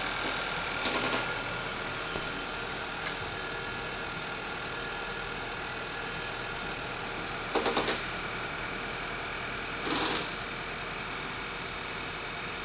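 2014 VW CC's CCTA engine idling steadily after two leaky injectors behind a cylinder 3 and 4 misfire were replaced. A few short sharp clicks cut through, including a quick rattle of several about two-thirds of the way in.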